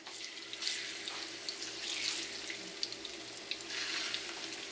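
Ripe plantain slices frying in hot oil in a pan: a steady sizzle with many small crackles and pops, which starts suddenly as the slices go in.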